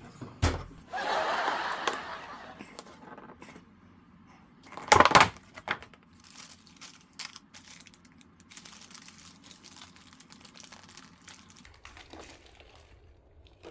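Crinkling and rustling, with scattered clicks; the loudest is a short crackling burst about five seconds in.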